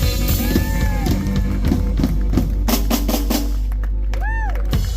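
Live blues band playing the closing bars of a song, ending in a run of drum hits over a held low bass note that cuts off near the end.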